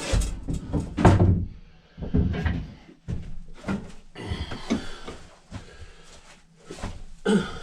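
A string of irregular knocks and clunks from hard objects being handled and set down, the loudest about a second in.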